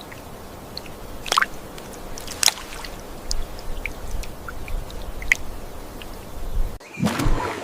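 Water ambience with scattered drips and small plops, changing near the end to louder sloshing and splashing water.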